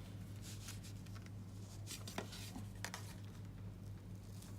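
Cardstock being handled on a craft table: soft rustling and scraping of paper, with two brief light taps about two and three seconds in, over a steady low hum.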